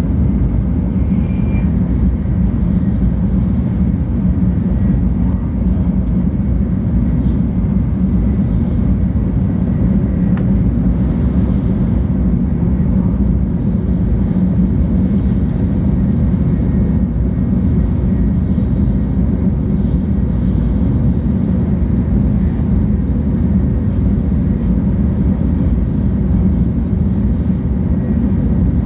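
Interior running noise of a 700 series Tokaido Shinkansen train heard from inside the passenger cabin: a steady deep rumble of wheels on rail and air rushing past, unchanging throughout.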